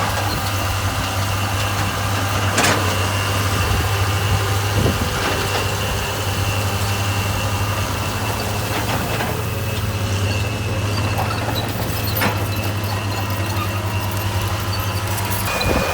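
Heavy construction machine's diesel engine running steadily with a deep, even hum, and a few sharp knocks from the machine as it works.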